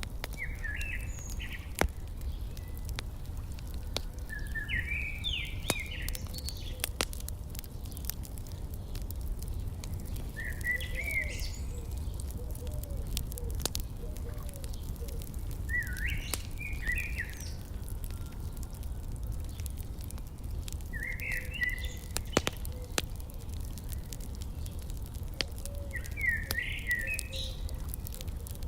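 A songbird repeats a short chirping phrase about every five seconds, over the scattered pops and crackles of a wood fire and a steady low rumble.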